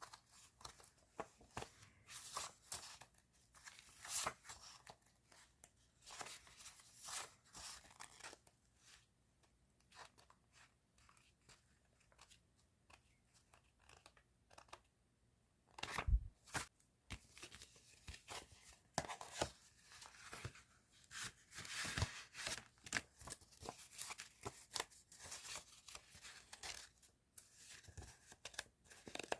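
Paper and plastic stationery packaging being handled and unwrapped: repeated short rustling and tearing, a quieter stretch in the middle, then a single sharp knock about halfway through.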